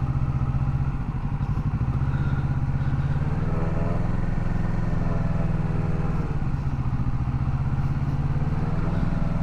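Motorcycle engine running at low revs through a slow, wide U-turn, the throttle fed on and off. The revs rise and fall in the middle and rise again near the end.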